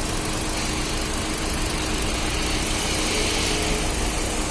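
Hyundai 1.2 Kappa VTVT petrol engine idling steadily.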